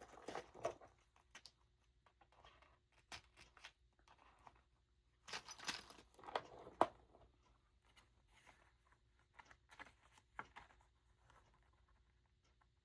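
Faint handling of paper tags and craft tools: light rustling of paper with scattered small clicks and taps, busiest about midway, with a sharp click near seven seconds in.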